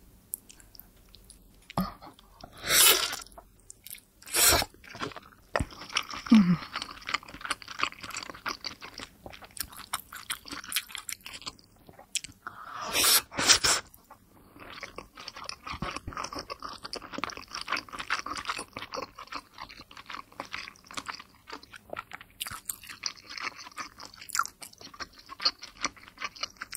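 Close-miked chewing of a big, juicy pork momo (a thaipo dumpling): a steady run of small wet mouth clicks and smacks. A few louder, sudden sounds stand out early on and about halfway through.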